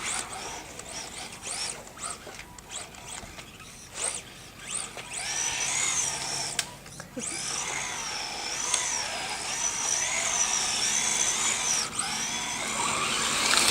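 Radio-controlled car's electric motor whining under throttle. It starts with short bursts that rise and fall in pitch, then runs in a longer high whine that wavers up and down as the throttle is worked.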